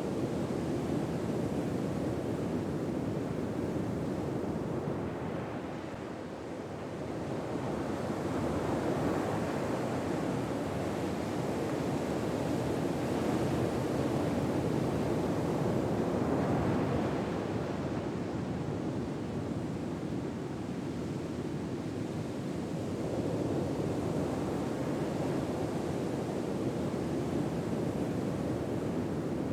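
Ocean waves breaking and washing on a shore in a slow, steady surf that swells and recedes every several seconds.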